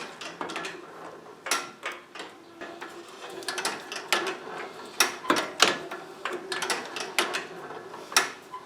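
Homemade locomotive's twisted V-belt and pulley drive running on test: a steady hum with irregular clicks and clunks from the belts and pulleys, cutting off suddenly at the end.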